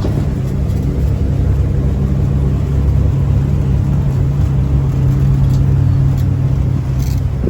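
A motor vehicle's engine running at a steady pace, with a low hum and road noise.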